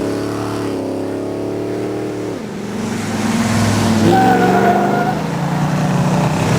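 Racing car engine at high revs accelerating hard, its pitch dropping sharply once about two and a half seconds in and then climbing again.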